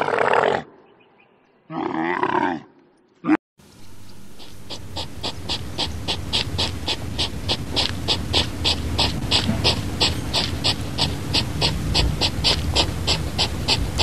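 Dromedary camel grumbling: a loud throaty call, then a second, shorter one about two seconds in. After that comes a steady, even ticking, about four a second, over a low rustle.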